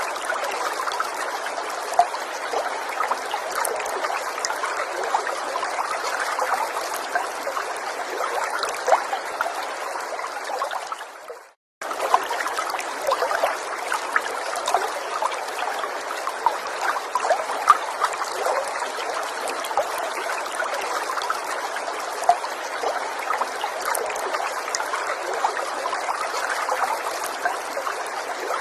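Small forest stream trickling and burbling over stones, a steady flow with little splashes. About eleven seconds in it fades out to a moment of silence, then starts again.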